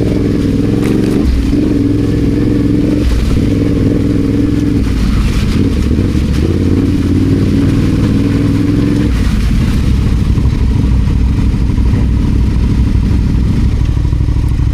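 Adventure motorcycle engine running while riding off road, its revs rising and falling, with some clatter. The engine note drops lower about nine seconds in.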